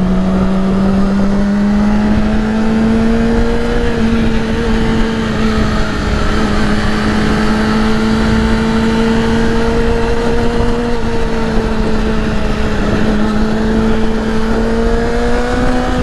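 2008 Yamaha R6's inline-four engine running at steady cruising revs, with wind rushing across the helmet microphone. The engine note drifts slightly up and down with the throttle, climbing a little near the end.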